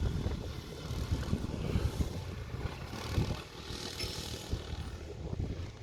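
Motocross bikes' engines running on the track, swelling and fading as riders pass, with a heavy low rumble underneath.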